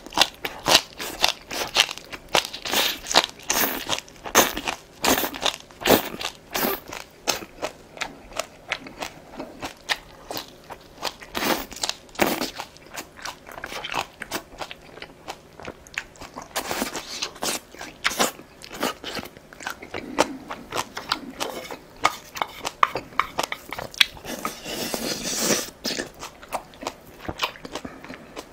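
Close-miked chewing and crunching of green onion kimchi (pa-kimchi): crisp bites and wet chewing in an irregular, steady run.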